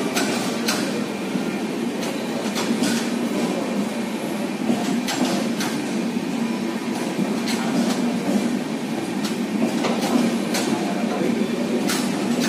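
Passenger train coaches rolling past at speed: a steady rumble of wheels on rail, with sharp wheel clacks that come mostly in pairs every couple of seconds.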